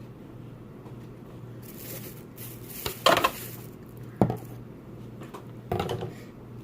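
Shellfish from a seafood boil being handled and cracked open: a rustle, then sharp cracks and clinks about three, four and six seconds in, over a low steady hum.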